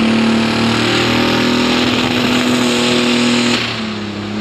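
Pro Stock pulling tractor's diesel engine running loud and steady at full power, with a thin high whine over it, then easing off sharply about three and a half seconds in.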